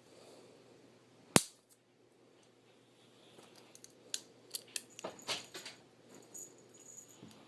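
A single sharp click about a second and a half in, then a scatter of lighter clicks and rustles over the next few seconds.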